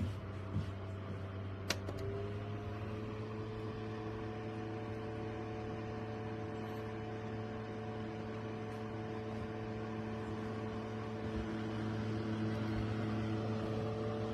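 Small USB-powered evaporative desk cooler's fan running with a steady motor hum. A click comes a little under two seconds in, after which the hum rises slightly in pitch and holds; it grows a little louder near the end.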